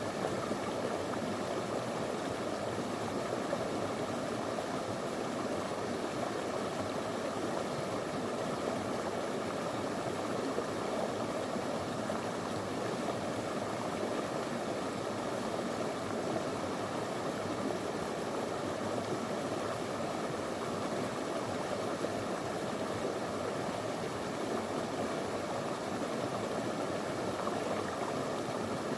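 Small river flowing over stones: a steady, even rush of water that does not change.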